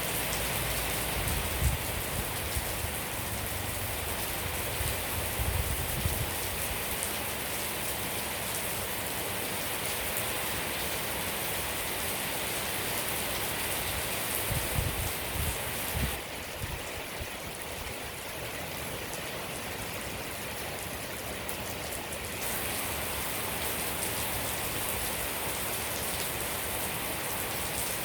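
Steady rain falling, a dense even patter, with a few low thumps in the first few seconds and again about halfway through. It turns briefly quieter and duller for several seconds after the middle.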